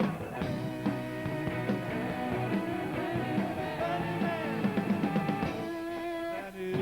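Garage-rock band playing live: a stretch with no words, guitar and drums over a steady beat, with one note bending down in pitch around the middle.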